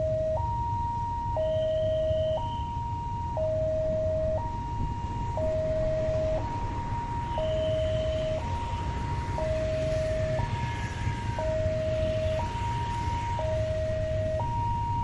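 Two-tone electronic warning alarm switching between a higher and a lower pitch about every half second, over a steady low rumble.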